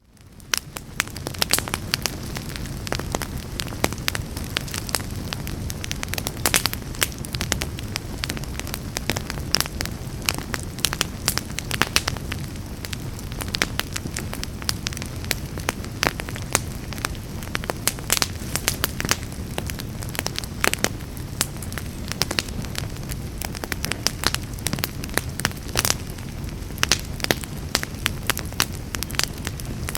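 Fireplace wood fire crackling: a steady low rumble of flames with frequent sharp pops and snaps. It fades in from near silence at the very start.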